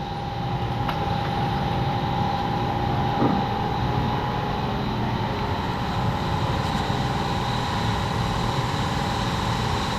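Steady, unbroken machine drone with a constant pitched hum, no changes in speed or level.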